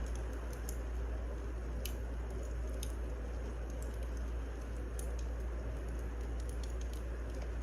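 Wood fire crackling in a fireplace: a steady low rumble and hiss with sharp pops about one or two a second.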